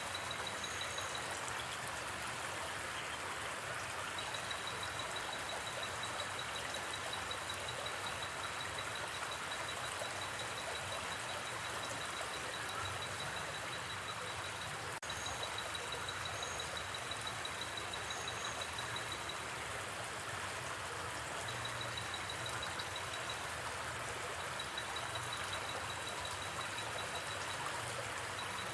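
Steady rushing water of a gently flowing river, with a high, rapid insect trill that starts and stops in long stretches and a few short high chirps. A single faint campfire crackle comes about halfway through.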